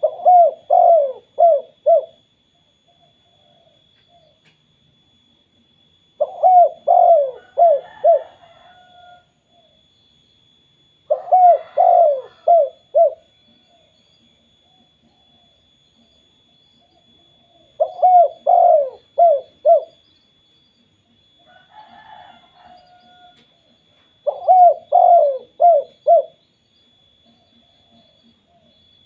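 Spotted dove (tekukur) cooing, its song of the 'kuk 2' type: five phrases of four or five quick notes, each about two seconds long, repeating roughly every six seconds. Fainter, rougher sounds come between phrases, twice.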